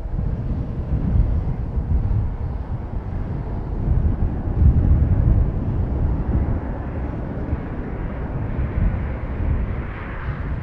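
Embraer E145 regional jet's twin Rolls-Royce AE 3007 turbofans at takeoff power, a loud deep rumble with a hiss that grows stronger near the end.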